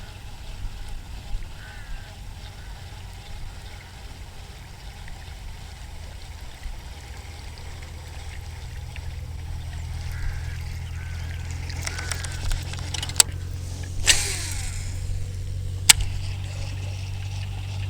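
Strong wind buffeting the microphone in a low rumble that grows heavier in the second half. A few sharp clicks and a short rushing burst come in near the end.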